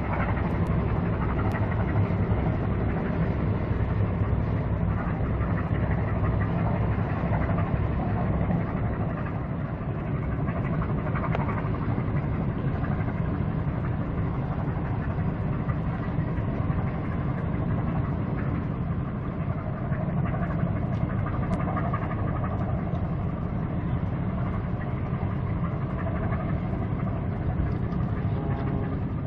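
Tugboat's diesel engine running steadily, a low, even rumble that does not change.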